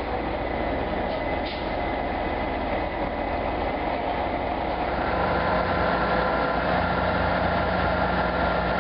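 Heavy vehicle engine running steadily with a constant rumble, a steadier hum coming in about halfway through.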